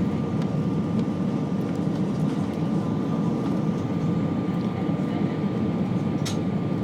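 Steady cabin noise of an Airbus A319 airliner on final approach: a low, even rush of engines and airflow with a faint constant high whine. A short tick sounds about six seconds in.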